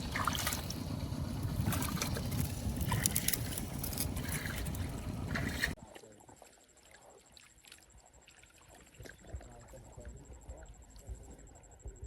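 Water splashing and sloshing in a muddy rice-field puddle for about six seconds, dense with small splashes. Then an abrupt cut to a much quieter stretch with faint scattered ticks and a thin, steady high whine.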